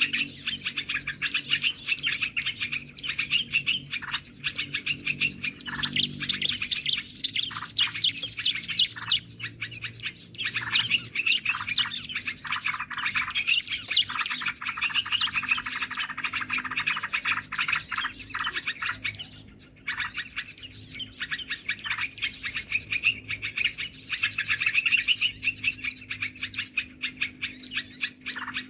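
Dense, unbroken chattering and twittering of many small birds, a bird-trapping lure call. A louder run of rapid, sharp clicking notes comes from about six to nine seconds in.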